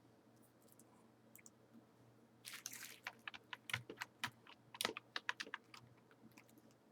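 Typing on a computer keyboard: a faint run of irregular key clicks beginning about two and a half seconds in and stopping around six seconds.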